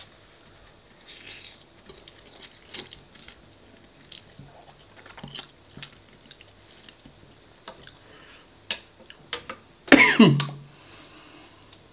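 A person chewing and eating spaghetti bolognese, with scattered short wet smacks and clicks. About ten seconds in comes a brief, louder sound that falls in pitch.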